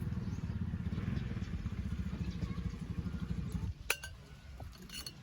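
Motorcycle engine idling with a fast, even low pulse, then switched off about three and a half seconds in. A sharp click follows, then a few light clinks near the end.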